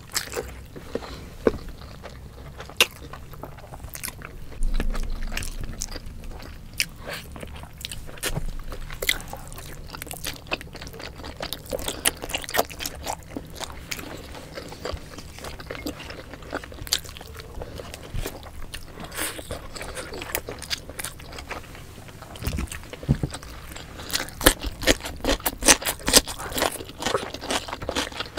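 Close-miked eating sounds of two people chewing braised pork belly adobo and rice by hand, with occasional crunchy bites and many sharp wet mouth clicks, most frequent near the end.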